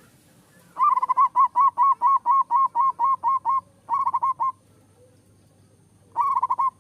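Zebra dove (perkutut) singing: a fast run of about fourteen short cooing notes, then two shorter runs of a few notes each.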